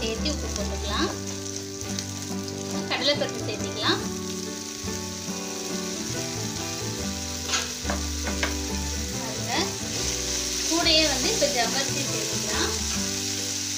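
Sliced onions, curry leaves and dried red chillies sizzling in oil in a nonstick frying pan while a spoon stirs and scrapes them. Partway through, boiled chana dal is tipped into the pan and stirred through the tempering.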